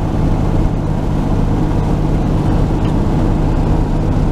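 1949 Chevy truck's engine running steadily under way, with a low, even drone and road noise.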